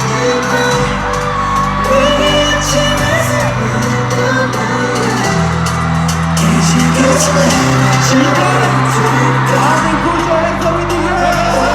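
Live pop music over stadium speakers, with a steady bass line and singing, and the crowd shouting and whooping along.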